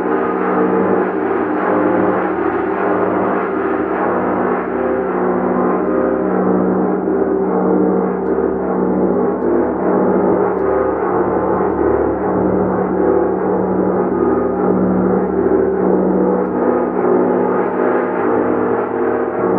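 Gong kept sounding continuously: a dense, sustained wash of many overlapping ringing tones, with a low hum that swells and fades slowly every second or two, and no single strike standing out.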